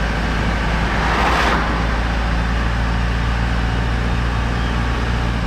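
A van's engine running, a steady low drone, with a brief rush of noise about a second in.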